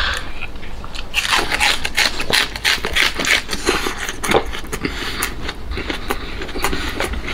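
A person chewing a mouthful of smoked pig large intestine close to the microphone: wet smacking with many short, irregular clicks of the mouth.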